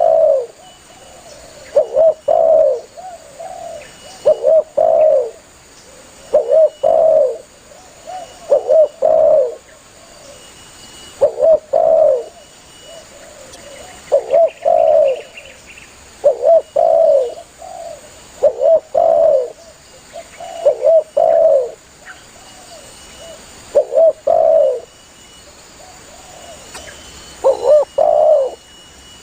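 Spotted dove (tekukur) cooing: a short phrase of a few low coo notes repeated every two to three seconds, with a longer pause near the end.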